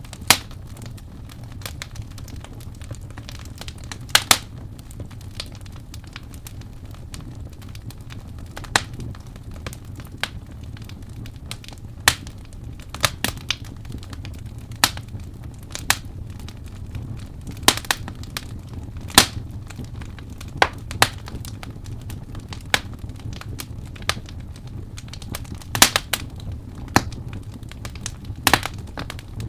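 Wood fire crackling: sharp pops and snaps at irregular intervals over a steady low rumble of burning.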